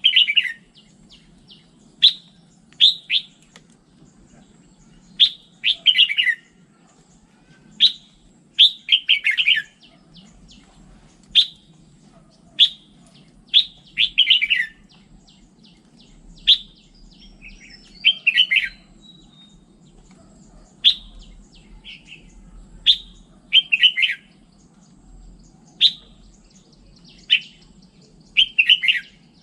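Red-whiskered bulbul singing: short, bright phrases of quick whistled notes, many sliding down in pitch, repeated every one to two seconds.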